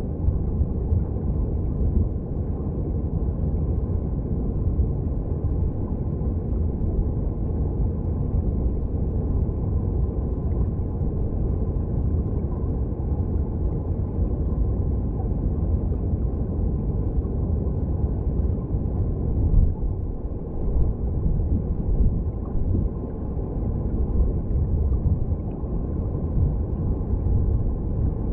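Mountain stream water heard through an underwater microphone: a steady, muffled rumble of flowing water, deep and dull.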